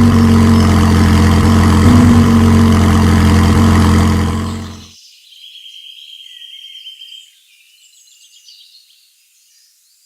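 A heavy engine idling steadily, fading out about four and a half seconds in. Faint high chirps follow.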